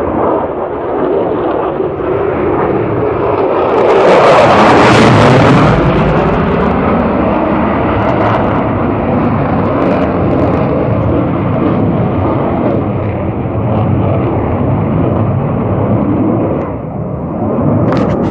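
F-16 fighter jet's engine noise, loud and continuous, swelling to its loudest about four to six seconds in as the jet passes, then a steady rumble.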